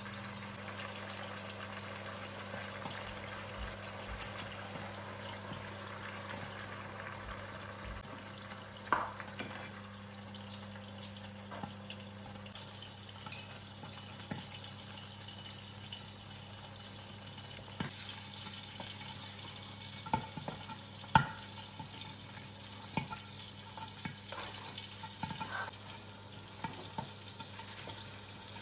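Food frying in a pan, a steady sizzling hiss, with scattered clicks and knocks of a utensil against cookware. A steady low hum runs under it and drops away about twelve seconds in.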